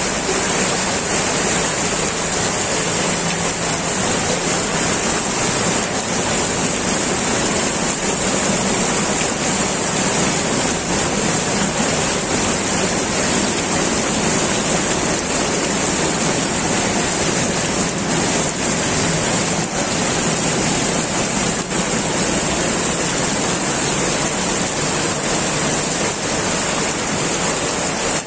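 Heavy rain pouring down, a loud, steady rushing hiss without a break.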